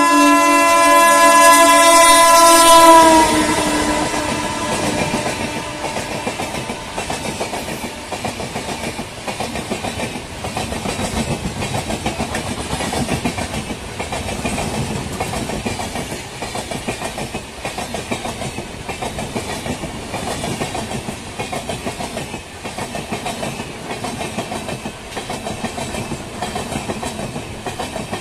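A locomotive's horn sounds a loud chord that ends, drooping slightly in pitch, about three seconds in. A passing train follows, its wheels clattering rhythmically over the rail joints.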